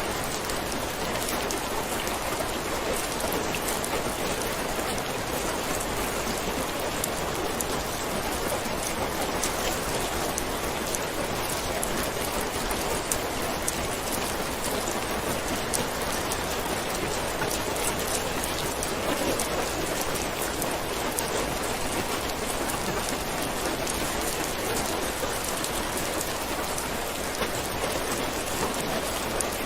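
Steady rain falling on a surface, an even patter with many fine drop ticks.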